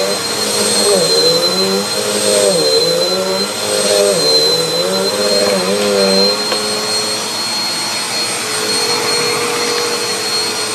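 Bissell AeroSwift Compact bagless upright vacuum running on its lowest setting: a steady high whine over a motor hum. The hum's pitch dips and recovers again and again for the first several seconds, then holds steady.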